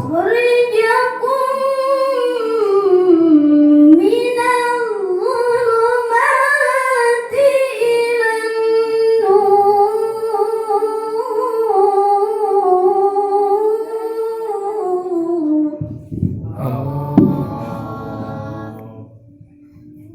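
A woman's voice in melodic Quran recitation (tilawah), drawing out one long ornamented phrase of gliding, wavering held notes for about sixteen seconds. Then the voice stops and a lower, muffled murmur follows, with a single knock partway through.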